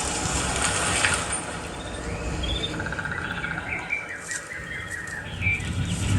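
Birds chirping in short, quickly repeated calls, after a rushing noise that dies away about a second in, played from a surround-sound demo soundtrack through loudspeakers.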